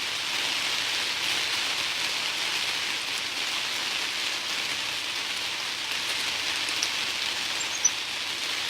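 Steady rain falling, an even hiss with no break, and a single small tick near the end.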